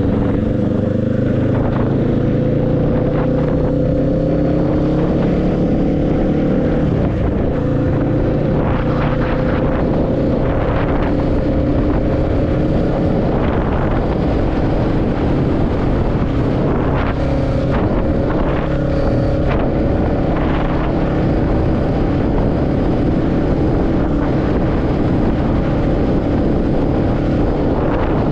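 Motorcycle engine running at a steady cruise, its pitch creeping slightly up over the first few seconds and then holding, under a constant rush of wind and road noise, with several brief surges of noise partway through.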